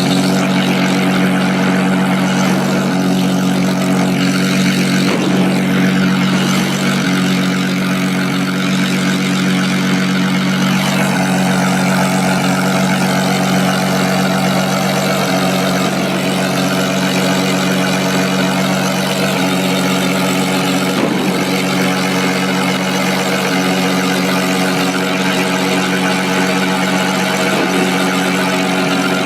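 Aircraft engines running steadily: a loud, constant hum with a deep steady drone that does not change in pitch.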